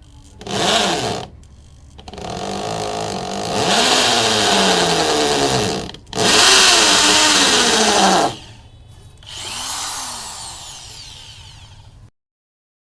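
BLACK+DECKER TB555 hammer drill's motor run in several bursts: a short blip, then longer runs whose whine climbs and falls as the variable-speed trigger is squeezed and eased, ending with a spin-down before the sound cuts off.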